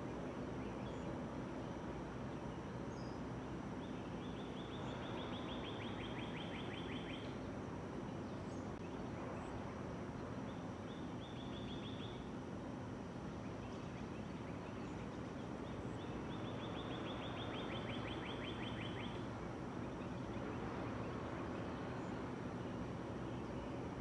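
A bird's rapid, dry trill, repeated three times, each lasting one to three seconds, over a steady hiss of outdoor background noise.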